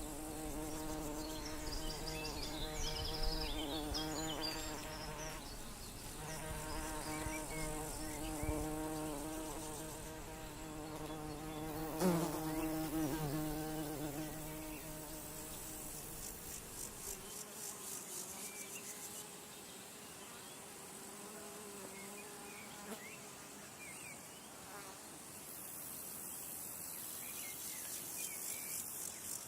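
Buzzing of a flying insect close by, a wavering hum whose pitch drops sharply as it passes about twelve seconds in, then fading to a fainter hum after about seventeen seconds. A high, rapid insect trilling runs in the background.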